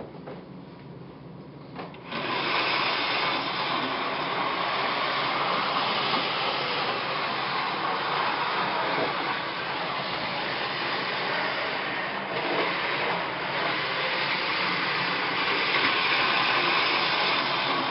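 O-gauge model train running on its track: a steady whir of motor and wheels that comes up sharply about two seconds in and holds evenly.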